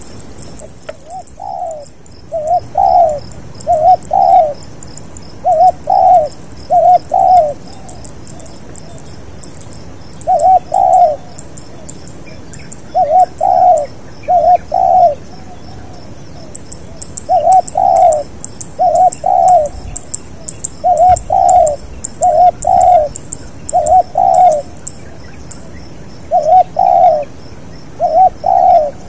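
Spotted dove (tekukur) cooing: short phrases of two or three low notes, repeated every second or two, with faint high chirps of other small birds.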